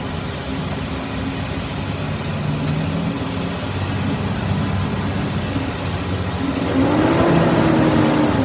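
Vehicle engine running with a steady low hum, swelling louder with a rising pitch about seven seconds in, as when it is revved under load.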